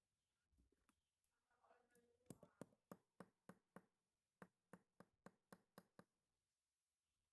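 Faint, quick light clicks, about four a second for a few seconds, from hands-on work on a Zippo lighter during a cam spring repair.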